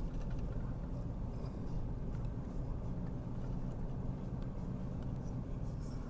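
Car cabin sound while driving: a steady low engine and road drone.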